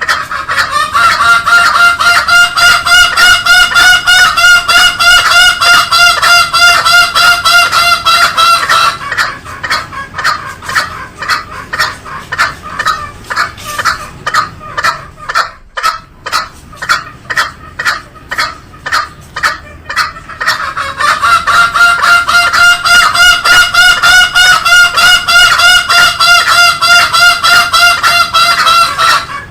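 Green junglefowl calls: two long, loud pitched calls, each lasting about eight seconds, with fast repeated pulsing notes running between and under them.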